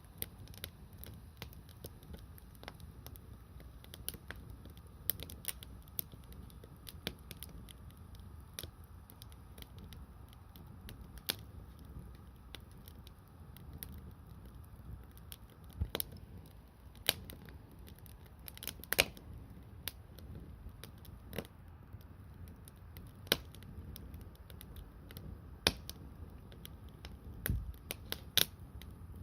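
Bonfire of conifer wood crackling, with irregular sharp pops over a low steady noise; a few pops stand out much louder, the biggest ones after the middle and near the end.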